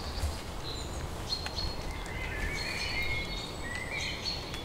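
Birds singing: short, thin, high whistled notes repeating, and a warbling phrase in the middle, over a low rumble.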